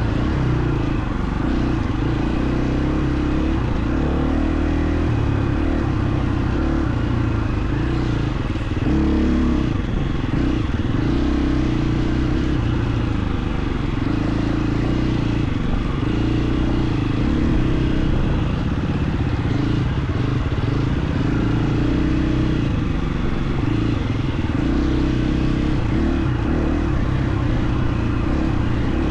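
KTM 350 XC-F's single-cylinder four-stroke engine running steadily as the dirt bike is ridden, the note rising and falling with the throttle, briefly higher about nine seconds in.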